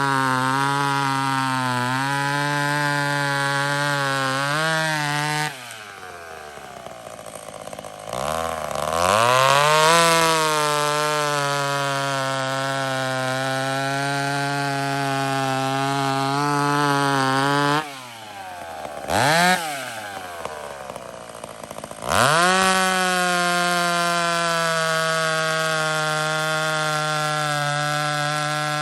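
Hot-rodded McCulloch 850 two-stroke chainsaw bucking firewood. It runs flat out in the cut, drops back to idle about five seconds in, revs up into a second cut, then drops again with a brief blip of the throttle. Near the end it revs up into a third cut.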